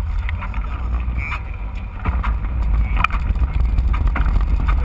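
Wind rumbling on the microphone of a camera riding along on a mountain bike, with scattered knocks and rattles from rolling over a rough dirt trail.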